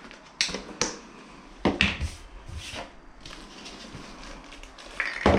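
Handling noises: a handful of short rustles and knocks, with one around 2 seconds in and a sharper pair near the end.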